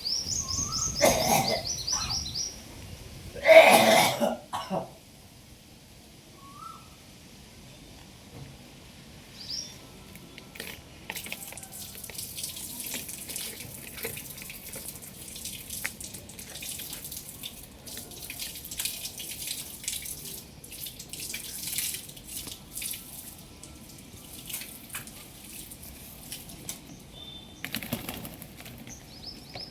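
Pet parrot calling: a quick run of high chirps at the start, a loud harsh squawk about four seconds in, and another run of chirps near the end, with scattered light clicks and scratches through the long middle stretch.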